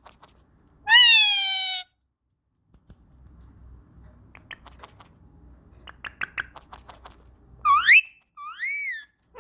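Indian ringneck parakeet calling: a loud drawn-out call falling in pitch about a second in, then a stretch of faint clicks over a low rumble, and two short calls near the end, one rising, one rising then falling.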